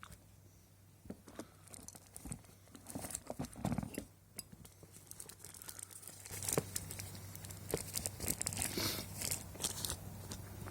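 Rustling, crinkling handling noise with scattered small clicks and taps, busiest in two stretches. A low steady hum comes in about six seconds in.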